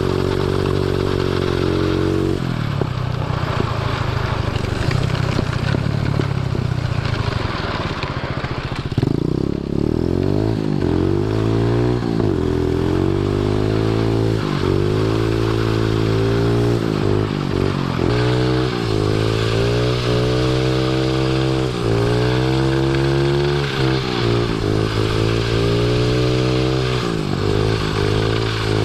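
Small 110cc pit bike engine on a drift trike running, steady at first, then revving up and down over and over from about a third of the way in.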